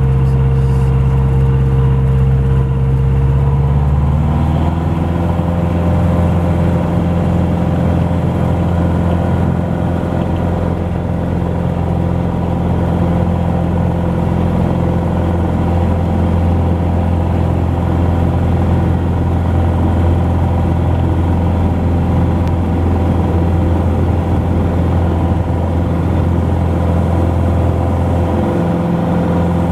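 Cessna 150's four-cylinder piston engine and propeller during a takeoff from a wet grass strip. The engine note changes about four seconds in, then runs steady at power, with a slight shift near the end.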